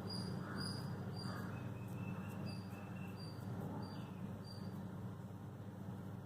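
Microwave oven running in convection mode while preheating, a low steady hum. Faint short high chirps repeat about twice a second over it.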